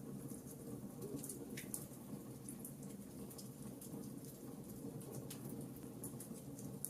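Fireplace fire crackling: scattered sharp pops and ticks at an irregular pace over a low, steady rumble of the flames.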